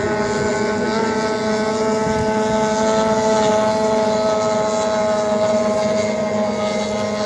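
Racing outboard motor on a small hydroplane running flat out, a loud, steady whine that holds its pitch.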